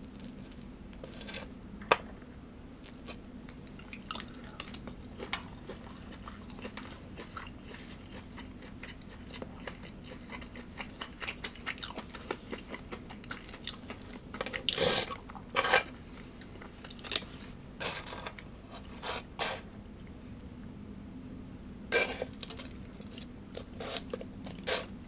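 A person chewing and crunching food close to the microphone: scattered crisp clicks, with a run of louder crunches in the second half.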